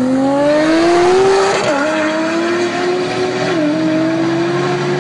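Highly boosted Nissan GT-R with a built 4.4 L twin-turbo V6 accelerating at full throttle, its engine note climbing in pitch, then dropping sharply at an upshift about a second and a half in, and dipping briefly twice more as it pulls on.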